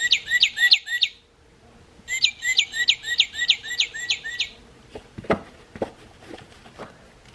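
Recorded northern cardinal song played from a squeezed plush toy's sound box: two phrases of rapid, repeated down-slurred whistles, about four a second, with a short pause between them. A few small clicks follow near the end as the toy is handled.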